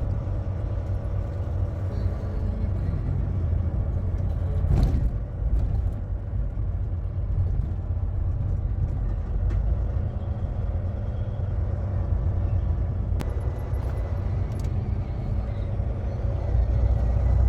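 Semi truck driving at speed, heard from inside the cab: a steady low engine and road rumble, with one brief whoosh about five seconds in.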